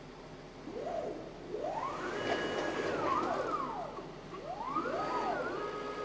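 Stepper motors of a large DIY CNC router whining as the gantry axes move on a test run: the pitch rises as each move speeds up, holds, then falls as it slows, with several moves overlapping, starting about a second in.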